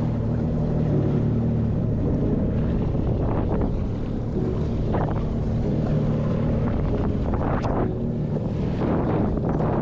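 Yamaha JetBlaster Pro jet ski's engine running steadily at speed, with wind on the microphone and water splashing against the hull in short bursts, about five and seven and a half seconds in.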